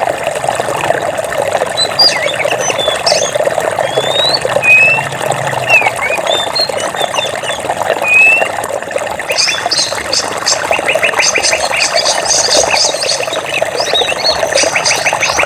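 Running water rushing steadily, with birds chirping over it: scattered short rising whistles in the first half, then a fast, evenly repeated trill from about two-thirds of the way in.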